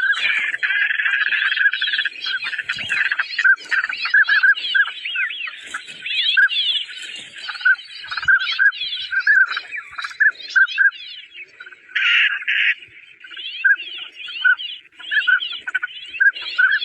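A dense chorus of many birds calling at once: rapid, overlapping short chirps and whistled sweeps, with a brief harsher burst about twelve seconds in.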